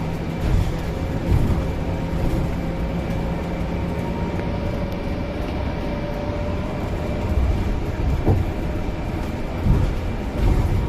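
Inside a Scania bus with a Bustech VST body, riding along: a steady engine and road rumble with a faint, slowly wavering whine, and several short knocks and rattles as it goes over bumps.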